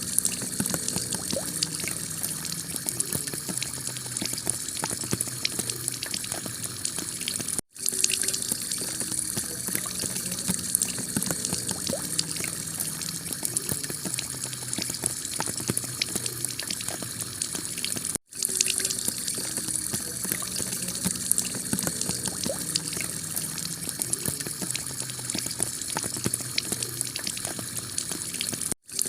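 Heavy rain pouring steadily onto a clay-tile roof, a dense patter of drops. The sound cuts out for an instant three times, about every ten seconds.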